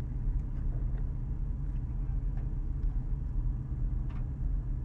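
Steady low rumble of a race car's engine and drivetrain heard from the driver's seat through the helmet, with a few faint clicks.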